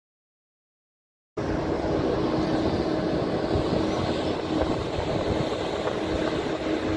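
Dead silence, then about a second and a half in, steady running noise of a slow-moving rail work train cuts in suddenly, with a steady low hum through it.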